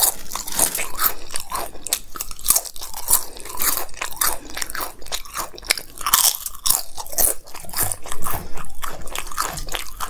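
Crisp fried papad bitten and chewed: a run of sharp, dry crunches, several a second.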